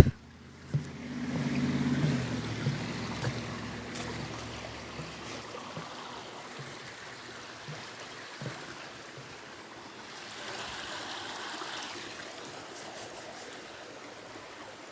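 Creek water rushing steadily. A sharp knock comes right at the start, and a low rumble runs through the first few seconds.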